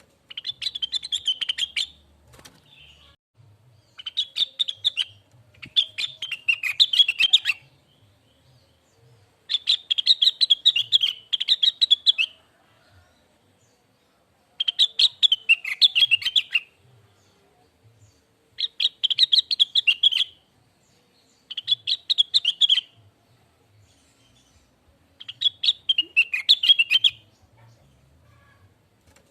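Blue-winged leafbird (cucak wilis) singing in eight bursts of rapid, chattering warbled notes, each lasting one to three seconds, with short pauses between them.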